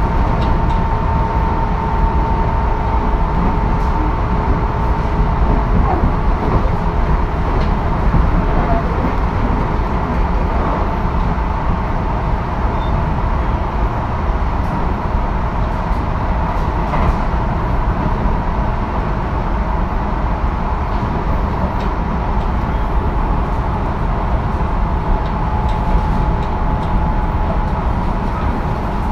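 Tobu 10080 series electric commuter train (motor car MoHa 12480) running at speed between stations, heard from inside the car: a steady rumble of wheels, track and traction motors. A thin steady whine sits over it, clearer at the start and again near the end.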